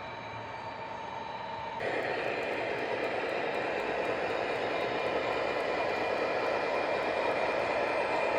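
Model train running on the layout track: a steady rumble of the locomotive motors and the wheels of a long string of boxcars. It gets suddenly louder about two seconds in.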